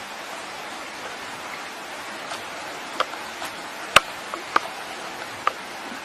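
Steady hiss with a handful of sharp clicks or taps from about three seconds in; the loudest falls near the middle.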